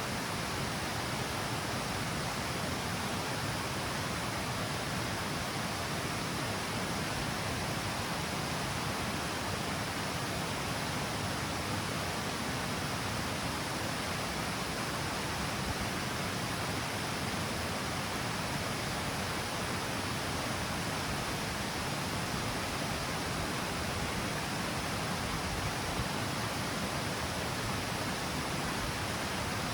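Water of the Mijares river falling over a stepped, L-shaped cascade: a steady, even rush of falling water.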